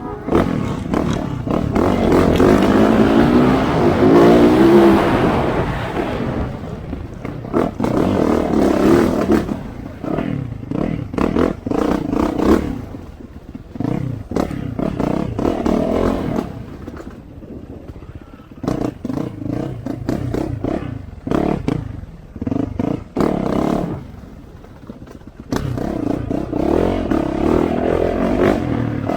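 Off-road motorcycle engine revving up and easing off again and again as the bike is ridden over a dirt trail, with two quieter stretches of low revs in the latter half.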